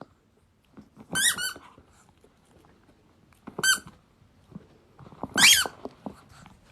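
Pomeranian puppy giving three short, high-pitched whines: about a second in, midway, and a rising one near the end.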